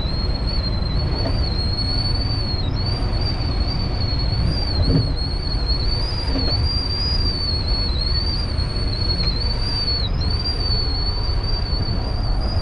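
Steady low rumble of a moving passenger train heard from inside the car, with a constant high, thin whistle that wavers slightly in pitch throughout.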